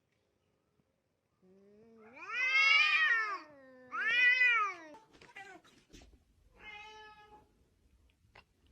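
Cat meowing loudly: two long, drawn-out meows that rise and fall in pitch, followed by a shorter, fainter meow.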